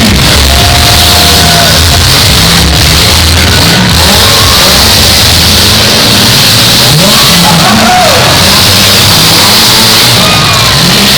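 Demolition derby cars' engines revving, very loud and distorted, mixed with music.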